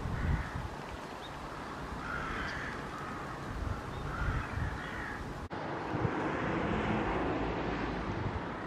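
Crows cawing several times over a steady outdoor background. About five and a half seconds in the sound cuts to a steady rumble, like wind or distant traffic.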